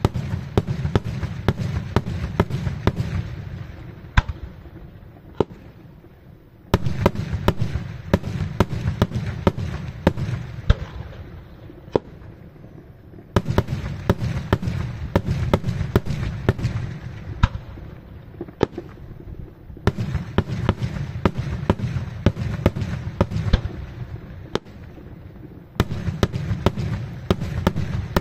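Daytime aerial fireworks bursting in rapid strings of sharp bangs over a low rumble. Each string starts suddenly and thins out over about six seconds, and five follow one another.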